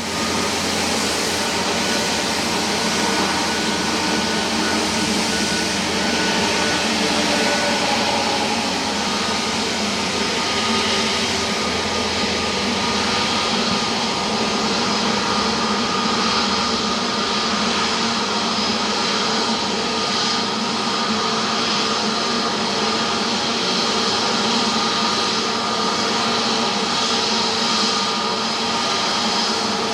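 Jet airliner engines, an Airbus A350-900's Rolls-Royce Trent XWB turbofans, running at a steady thrust: a constant rushing noise with a steady whine of several tones over it.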